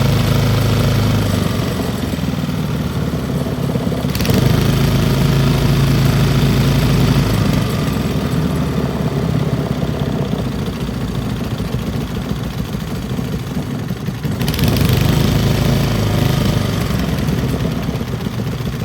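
Old Briggs & Stratton single-cylinder small engine running, its speed rising about four seconds in and again near the middle-to-end, then dropping back each time, as the carburetor's idle is adjusted.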